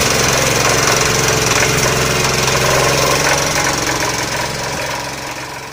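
Stationary diesel irrigation-pump engine running steadily with a rapid, even knocking beat; the sound fades away near the end.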